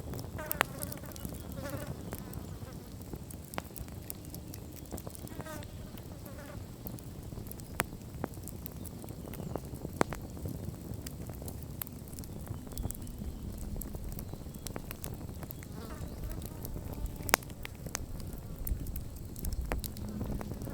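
Wood campfire burning and crackling, with scattered sharp pops, the loudest about 17 seconds in, over a low steady rumble of the flames. Faint short chirping calls come and go.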